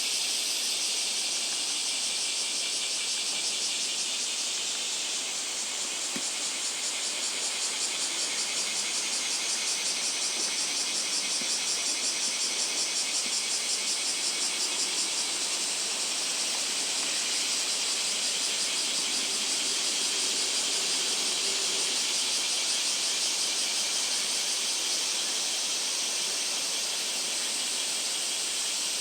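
Cicadas in chorus: a dense, continuous high buzz with a rapid pulsing.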